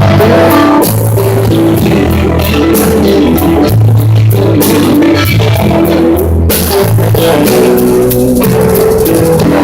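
Blues-rock band playing live: electric guitar, bass guitar and a drum kit with cymbals.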